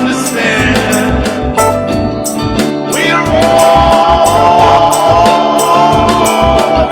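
Band playing an improvised song with a steady drum beat and a singing voice that holds one long note from about halfway through.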